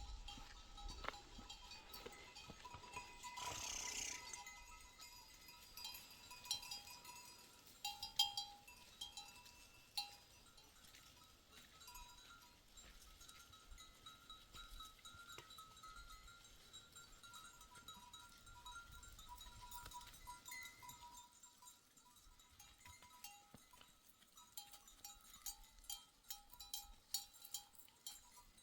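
Faint, intermittent ringing of livestock bells: short bell tones and clinks that keep coming and going.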